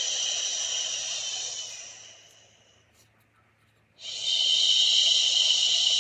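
Dreamegg Pocket Sleep 1 mini white noise machine playing a steady hissing noise sound. The noise fades out about two seconds in, drops to near silence for about a second, then cuts back in abruptly at full level about four seconds in.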